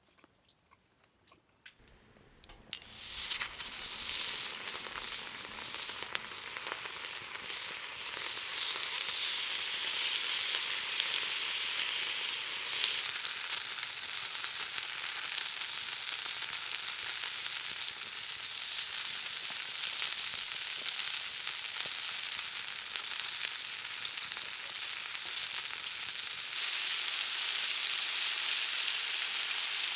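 Food sizzling as it fries on hot iron cookware: quiet for the first couple of seconds, then a steady sizzle starts about two and a half seconds in and keeps going with small crackles and one sharper pop about halfway.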